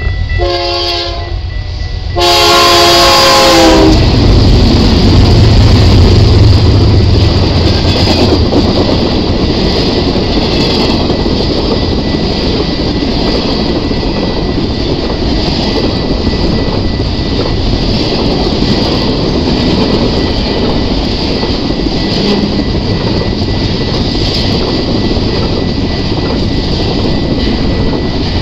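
A BNSF freight train passing close. The locomotive horn sounds a short blast, then a louder one about two seconds in, its chord sagging slightly in pitch as it goes by. The three diesel locomotives run past, followed by the steady rolling noise and clatter of double-stack container cars on the rails.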